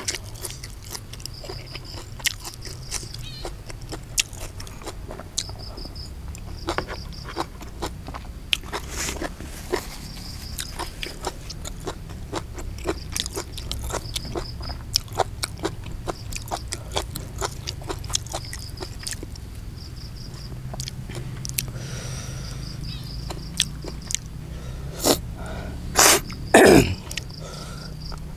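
Close-up chewing and lip-smacking of raw beef, with many short wet clicks. Insects chirp in short repeated bursts in the background. Near the end come two loud throat sounds, the second dropping sharply in pitch.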